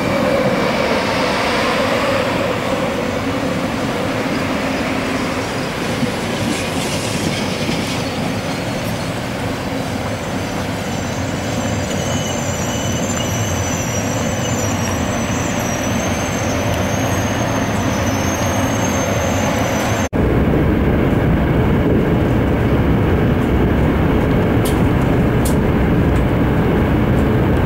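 Sapsan (Siemens Velaro RUS) high-speed electric train at a station platform: a steady noise, with several thin high-pitched whines joining about halfway. After an abrupt cut, the steady low rumble of the train running, heard from inside the carriage.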